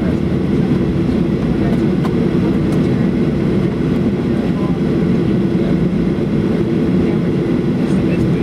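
Steady engine rumble and airflow noise heard inside the passenger cabin of a Boeing 737-800 airliner, with an even, unchanging level.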